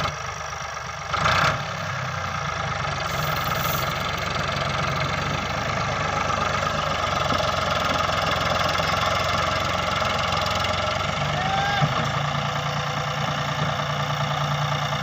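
Tractor diesel engine running steadily, with a short loud noise about a second in.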